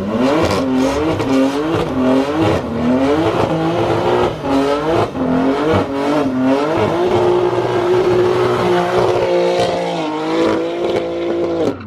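Car engine revved hard, its pitch swinging up and down about twice a second, then held at high revs for about four seconds before it drops away suddenly near the end.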